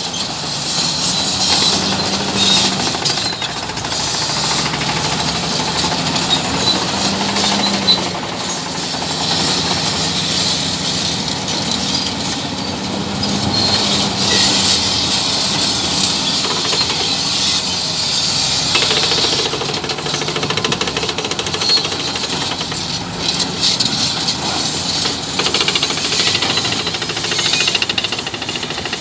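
Bulldozer working: its diesel engine runs steadily under load, with frequent metallic clanking and a hissing, grinding noise over it.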